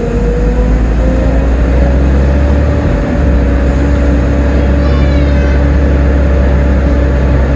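Volvo B7TL double-decker bus engine pulling under load, a deep rumble with a hoover-like whine that rises slowly in pitch as the bus gathers speed. A brief faint high squeak about five seconds in.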